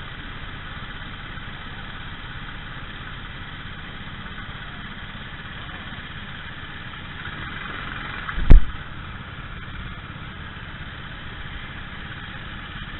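Kart engines running steadily, with one sudden loud thump about eight and a half seconds in.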